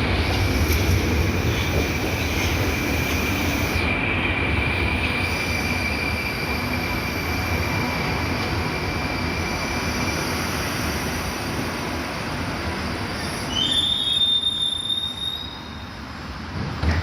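Moscow Metro Butovskaya line train running, with a steady rumble and a high, steady wheel squeal that fades after about ten seconds. A shorter, higher squeal comes near the end, after which the running noise drops as the train slows.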